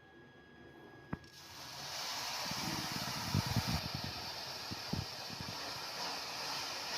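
Sizzling in a hot pan, setting in about a second in and holding steady, with a single knock just before it and scattered light knocks as the pan is worked.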